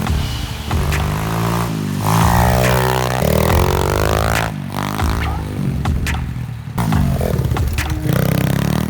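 SSR125 pit bike's 125cc four-stroke single-cylinder engine being ridden, revving up and down repeatedly as the throttle is worked.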